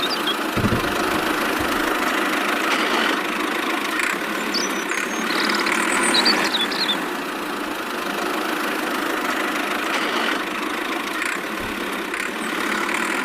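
A small motor running steadily, a dense even mechanical noise, with a few short bird chirps around the middle.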